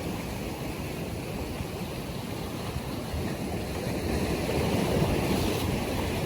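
North Sea waves washing in: a steady rush of surf that swells louder about four seconds in.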